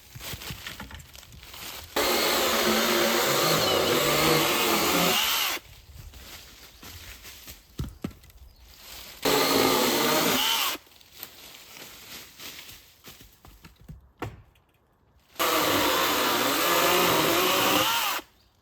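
A power saw cutting firewood: three cuts, each a few seconds long, starting and stopping abruptly with quiet gaps between. The tool falls silent between cuts rather than idling.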